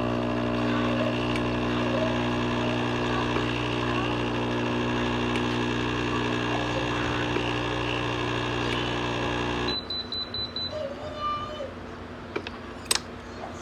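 A machine hums steadily, then cuts off suddenly about ten seconds in, leaving a few faint clicks.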